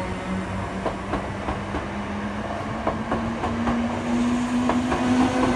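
Electric passenger trains passing close over a level crossing, their wheels clicking irregularly over the rail joints, with a steady whine that rises slowly in pitch and grows louder near the end.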